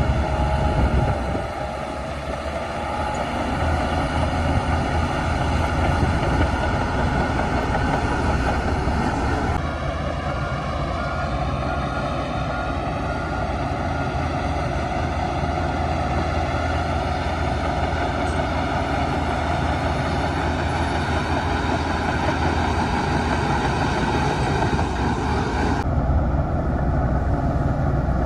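Heavy diesel earthmoving machinery running steadily: bulldozer and dump truck engines at work. The engine sound shifts abruptly about a second and a half in, about ten seconds in, and again near the end.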